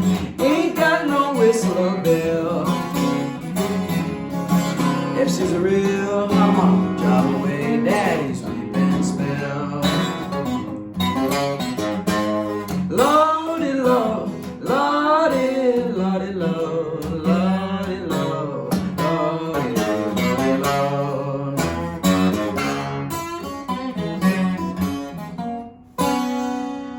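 Acoustic guitar playing a blues, with bending notes, and finishing on a chord that rings out near the end.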